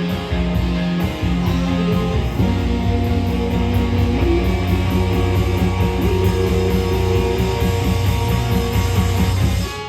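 Live rock band playing an instrumental passage: electric guitar, bass and drums with a steady beat. The band stops abruptly near the end, leaving a guitar ringing.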